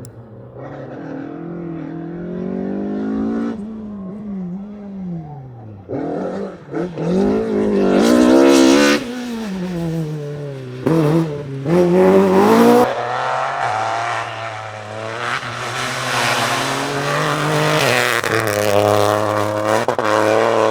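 Rally cars at full speed, engines revving hard: the pitch climbs and drops again and again as the drivers shift gears, with the loudest passes about eight and twelve seconds in.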